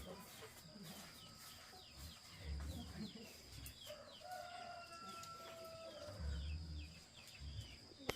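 Chickens: a steady run of short, high, falling peeps, with one longer crow-like call about four seconds in, held for a couple of seconds. A few dull low knocks sound under them.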